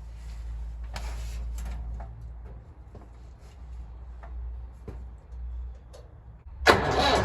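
Low rumble with a few light clicks, then near the end the 1969 Nuffield tractor's four-cylinder diesel engine suddenly starts cranking on a cold start, a loud rasping clatter.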